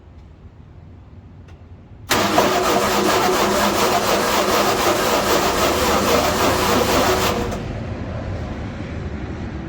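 Grimmer-Schmidt self-powered air compressor starting after months unused. Its 302 cubic inch Ford V8 has four cylinders making power and four pumping air. The engine comes in suddenly and loudly about two seconds in, runs hard for about five seconds, then drops to a quieter steady run.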